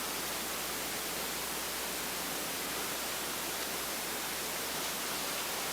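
Steady, even hiss of background noise, with no distinct knock or other event in it.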